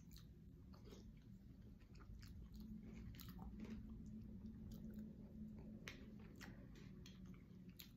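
Faint chewing of a spoonful of shrimp and vegetables, with scattered small clicks.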